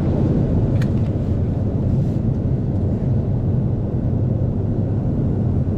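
Steady cabin noise inside a parked Boeing 757-200, a constant low hum and air rush from the aircraft's ventilation and systems, with a couple of faint clicks about one and two seconds in.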